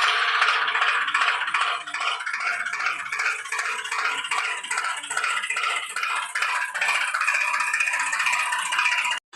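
Continuous fast rattling clatter, cut off abruptly near the end.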